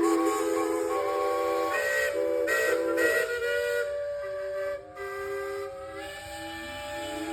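Several steam engine whistles blowing at once at different pitches, their tones overlapping, some held and some given short toots. Near the middle there is a brief drop as whistles cut off, then others carry on.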